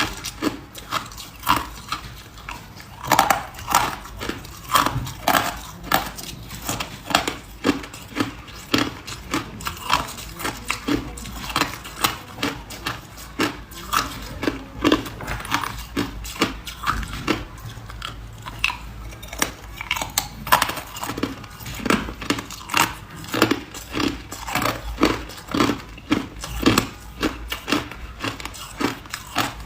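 A person chewing hard ice close to the microphone, a continuous run of sharp crunches about two a second.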